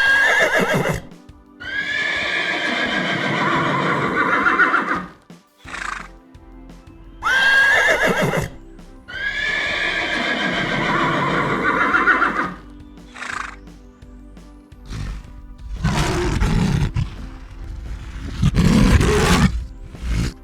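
An animal calling over background music: twice a long, high call that opens with a sharp rising squeal and trails off in a wavering tail, then two shorter, lower, rougher calls near the end.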